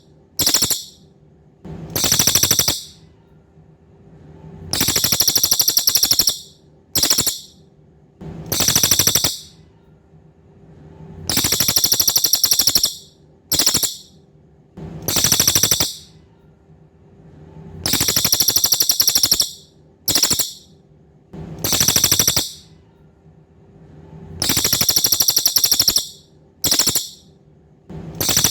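Cililin songbird singing high, buzzy rapid trills in a repeating phrase of three: a long trill about a second long, a brief one, then a medium one, with the phrase coming back every six or seven seconds. This is a looped birdsong recording used as masteran, song-training for competition birds.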